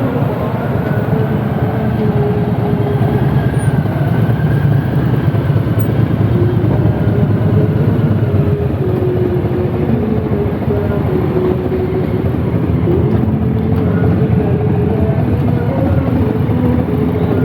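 Car engines running, with several engine tones slowly rising and falling in pitch over a steady loud rumble.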